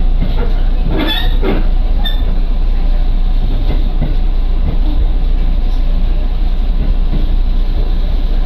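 Train heard from inside the carriage while moving: a steady rumble of wheels on rail, with a brief squeal and rattle about a second in.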